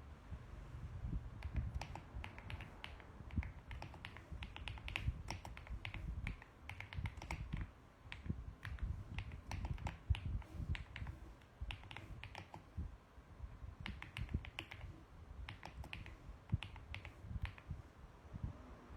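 Typing on a mechanical keyboard: irregular runs of key clicks with short pauses between bursts.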